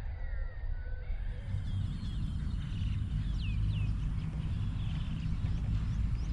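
Birds calling outdoors with short chirps and quick falling whistles, more of them from about two seconds in, over a steady low rumble.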